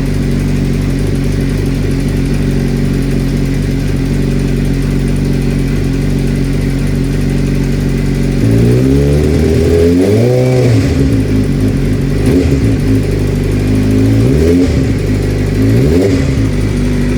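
Suzuki GSX-R600 inline-four engine idling steadily, then revved once, rising and falling over about two seconds, and blipped twice more briefly near the end. The engine has a clicking at idle that seems to follow the firing order; the mechanic puts it down to the vacuum system rather than the valve train.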